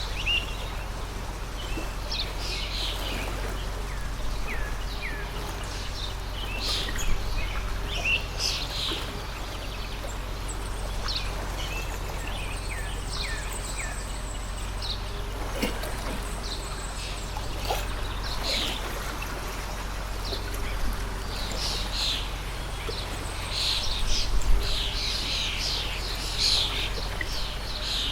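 Small birds chirping and calling over the steady rush of a water stream. The chirps come thicker near the end.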